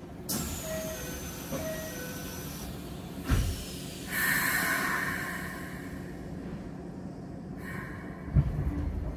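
Keikyu New 1000 series electric train standing still, with a steady low equipment hum. A short two-tone chime sounds twice, a thud follows a little after three seconds, and then comes a hiss of about a second and a half, with another thud near the end.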